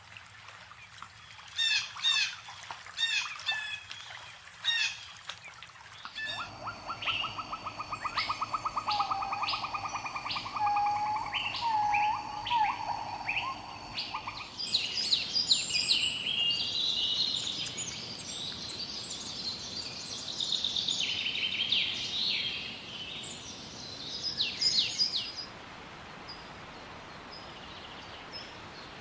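Songbirds calling and chirping in a forest. First comes a run of short repeated calls, then a fast low trill under other calls over a few steady high tones, then a dense chorus of quick high chirps. Each change is abrupt, and the last few seconds are faint, with only background hiss.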